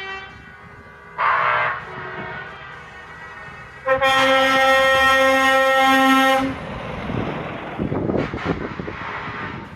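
Truck air horns sounding: a short blast about a second in, then a long steady blast of about two and a half seconds. Rougher engine noise from passing trucks follows near the end.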